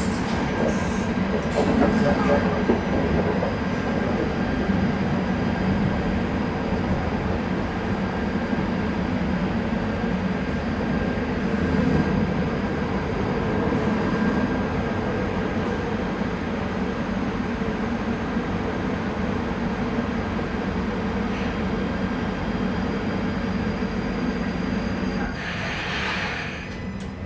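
KVB B80D light-rail car running on rails, its new traction converter giving a steady whine over the traction motor and wheel rumble. Near the end the running noise drops and a short hiss comes in.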